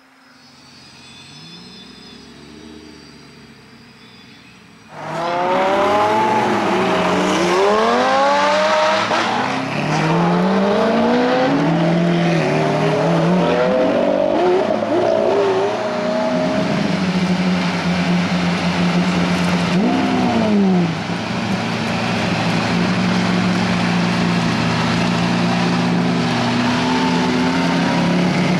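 Lamborghini Aventador V12 engines, fainter for the first few seconds, then suddenly loud about five seconds in with repeated rising and falling revs as the cars accelerate. The revs then settle into a steady held engine note, broken by one brief rev rise and fall about twenty seconds in.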